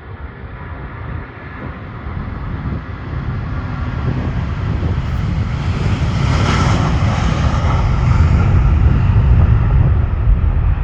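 Airbus A330 jet engines at takeoff power, the noise growing steadily louder. A high whine peaks about six seconds in, while a deep rumble keeps building.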